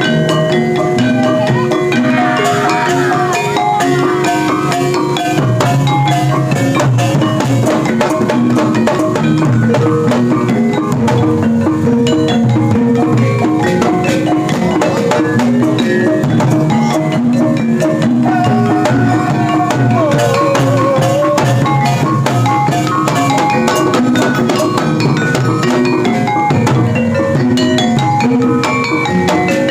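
Gamelan ensemble playing a steady, busy rhythm: struck metal-keyed mallet instruments over drums, with a wavering held melodic tone for a few seconds in the middle.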